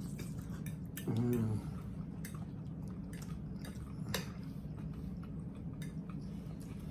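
Cutlery clinking against dishes during a meal: a handful of scattered light clicks, the sharpest about four seconds in, over a steady low hum. There is a short vocal sound about a second in.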